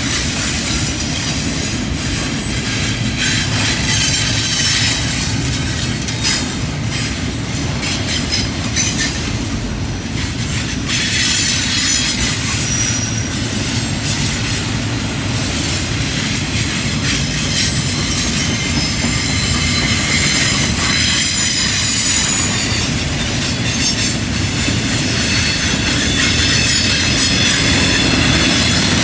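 Double-stack container cars of a freight train rolling past on a curve: a steady heavy rumble with the steel wheels squealing high against the rails, the squeal wavering in and out.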